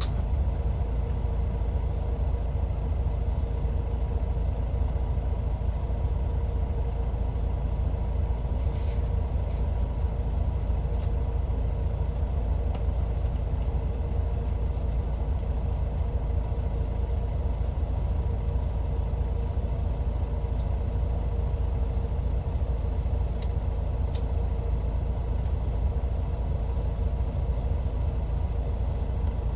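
Hyundai Universe coach's D6CC Powertec 380 inline-six diesel running steadily at an unchanging engine speed, a deep rumble with a constant hum.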